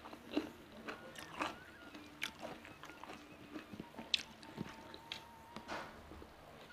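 Close-miked chewing: irregular soft, wet mouth clicks and smacks as a person eats with the mouth closed.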